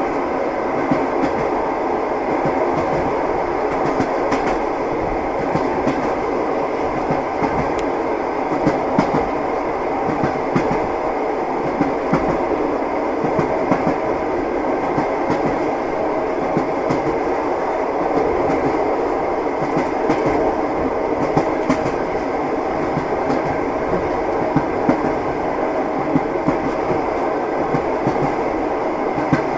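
Train wheels clacking over rail joints, heard from inside a passenger compartment: a steady rumble of the moving carriage with frequent sharp clicks.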